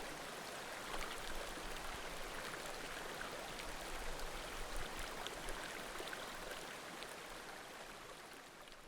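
Small mountain creek murmuring steadily, with faint pops and crackles of a wood bonfire scattered through it. The sound fades out over the last couple of seconds.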